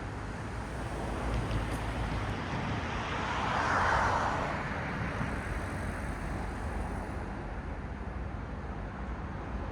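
Road traffic: a steady hiss of tyres and engines, with one car passing close. It swells to its loudest about four seconds in, then fades back into the background traffic.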